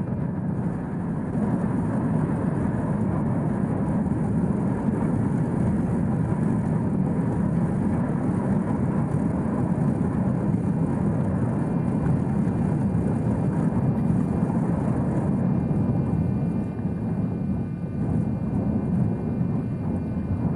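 Wind blowing hard across the microphone: a steady, low noise with no breaks.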